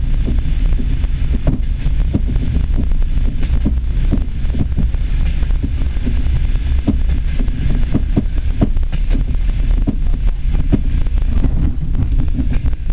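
Passenger train carriage running at speed, heard from inside: a steady low rumble of wheels on rails with frequent irregular knocks and rattles from the car.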